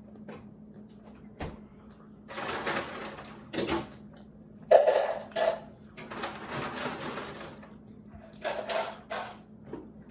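Rustling and handling noises from eating at the table, in several irregular bursts, the loudest about halfway through, over a faint steady low hum.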